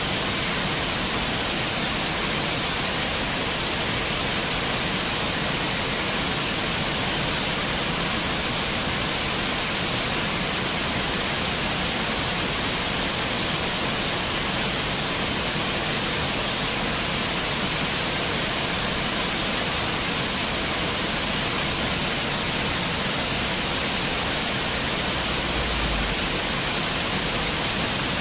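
Running water rushing steadily, an even splashing hiss with no change in level.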